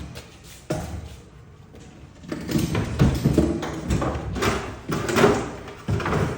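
Knocks and rough scraping as a heavy refrigerator is shifted and laid down on its side: a sharp knock about a second in, then a few seconds of scraping and bumping, and another knock near the end.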